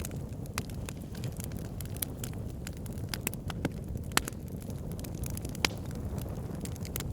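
Fireplace fire crackling: a steady low rumble of flames with frequent sharp pops and snaps, two louder pops about four and five and a half seconds in.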